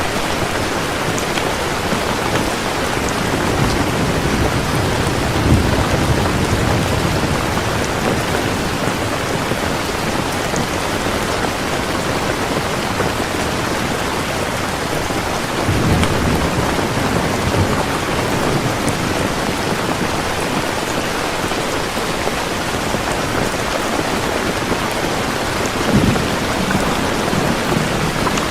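Heavy rain falling steadily, with three short low rumbles of thunder about ten seconds apart.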